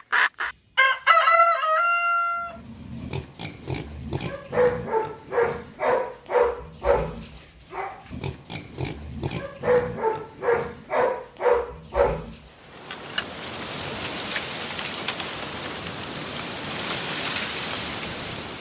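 A rooster crows once, the call rising in steps and ending on a held note. It is followed by about ten seconds of short, repeated chicken clucks at about two a second, then a steady hiss with no calls.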